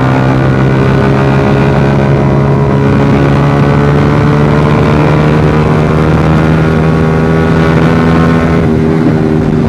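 Suzuki GSX-R150's single-cylinder engine running through an aftermarket Proliner racing exhaust while riding at steady revs, loud, its pitch creeping slowly upward and shifting briefly near the end.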